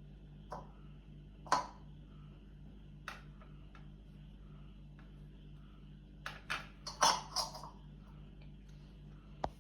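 A spoon clinking and scraping against a dish while paneer sandwich filling is spread on bread: scattered single taps, then a quick run of clinks a little past the middle.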